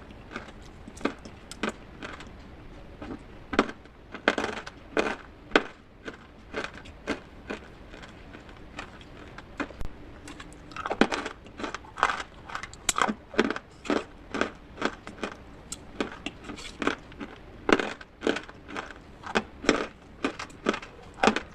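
Brittle pieces of baked clay pot (matka) being crushed, a steady run of sharp, irregular crunches at roughly two or three a second.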